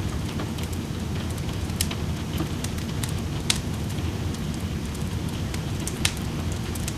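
Wood fire crackling in a fireplace, with scattered small ticks and three sharper pops, over a steady wash of rain.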